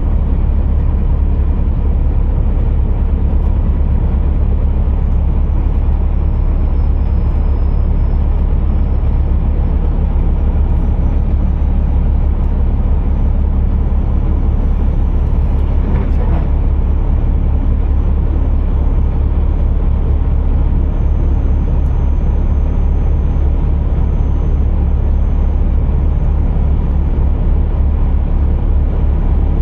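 Scania R480 truck's inline-six diesel running with a steady, deep low rumble, with one brief click about halfway through.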